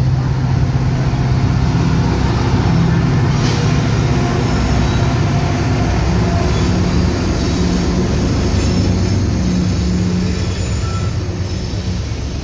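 Union Pacific freight train passing: the lead diesel locomotive's engine runs with a steady low drone, then the freight cars roll by on the rails, the sound easing slightly near the end.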